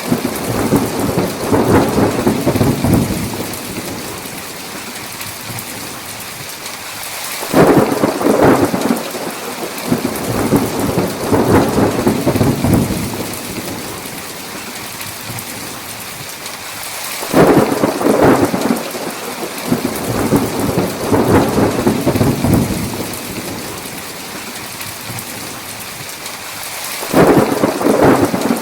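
Thunderstorm: heavy rain falling steadily, with three peals of thunder that each break suddenly and rumble for a few seconds before dying away, about ten seconds apart.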